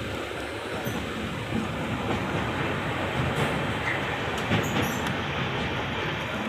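Express passenger train running at speed, heard from an open coach doorway: a steady rush of wheels on the rails, with a couple of light clicks about halfway through.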